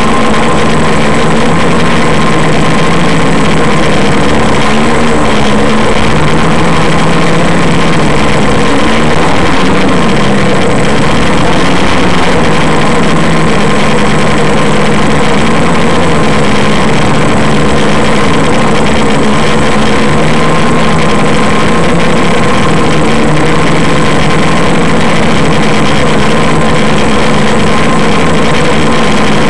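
AeroQuad quadcopter on a DJI Flamewheel frame, its electric motors and propellers buzzing loudly and steadily in flight, with a cluster of low tones that waver up and down as the motor speeds change.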